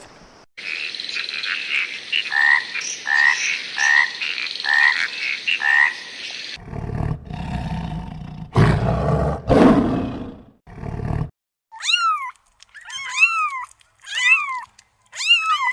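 Animal calls from several clips in turn: a run of short calls repeated about every 0.6 s over a steady hiss, then a few seconds of low, rough calls, then four short arching chirps near the end.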